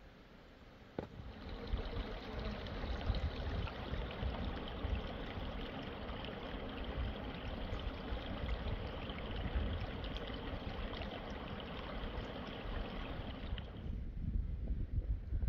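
Water running steadily, starting just after a click about a second in and cutting off suddenly about two seconds before the end; a low rumble follows.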